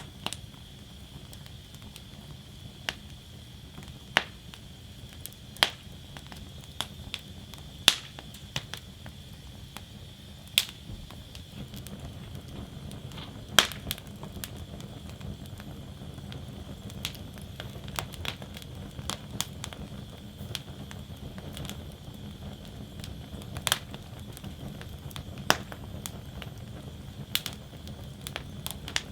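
Wood fire burning in a steel fire basket, crackling: sharp, irregular pops and cracks every second or two over a low, steady rumble of flame.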